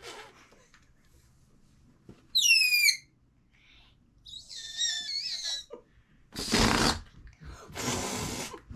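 A whistle-like sound in a few quick falling glides, followed by a quieter wavering whistle and then two long hissing bursts.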